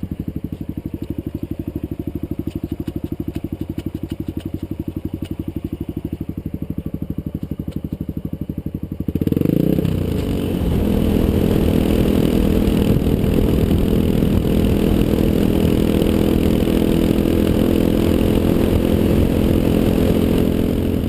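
Motorcycle engine idling with an even pulse, then revving up about nine seconds in as the bike pulls away and keeps running at a higher, steady pitch.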